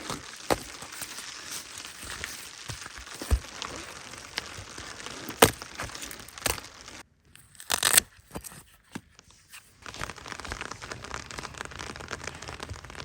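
Steady hiss of rain, broken by sharp crackles and snaps, with a short hush about seven seconds in.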